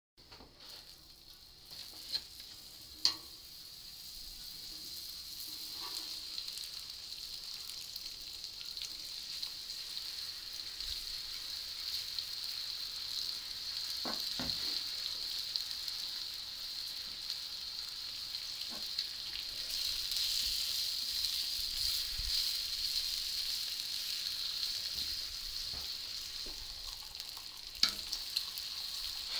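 Bacon strips and a burger patty sizzling on a hot flat-top griddle, a steady frying hiss that builds slowly. A few sharp taps cut through it, the loudest about three seconds in and near the end, where a metal spatula works the patty.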